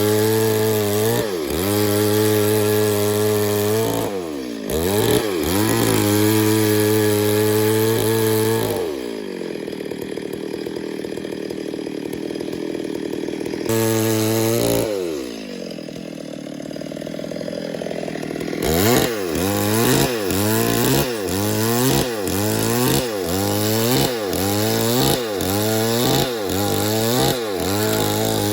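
Stihl MS 382 two-stroke chainsaw at high revs. About nine seconds in it drops to idle, revs up once, and idles again. From about nineteen seconds on its revs rise and fall roughly once a second.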